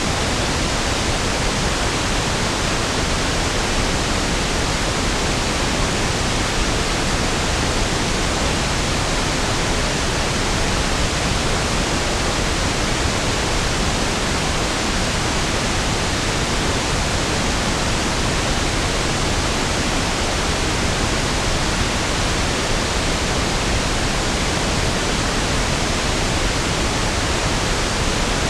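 Steady pink noise (1/f noise): an even, unchanging hiss with equal energy per octave, softer and deeper than white noise.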